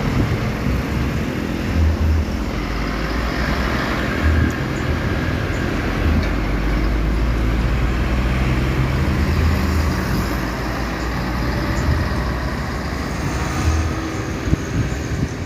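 Diesel truck engine running steadily with road and traffic noise, a low rumble with recurring low thumps.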